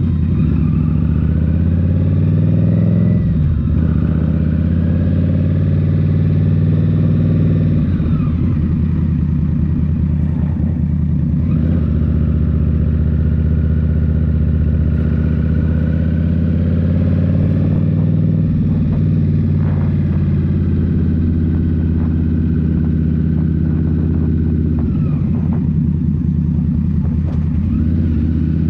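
Indian Scout Rogue's 69 cubic-inch V-twin, breathing through a Rinehart slip-on exhaust, running under way. The engine note dips and climbs again several times as the throttle is rolled off and back on.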